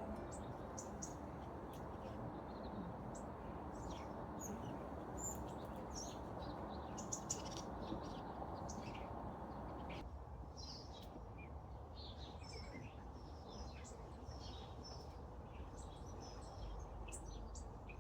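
Small garden birds chirping and calling in short, scattered high notes over a steady background hiss, which gets quieter about halfway through.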